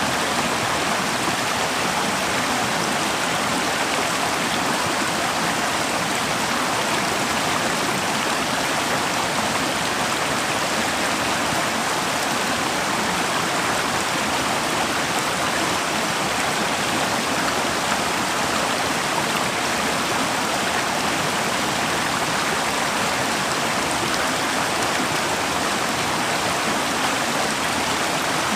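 Forest river flowing over rocks, a steady rushing and splashing of running water.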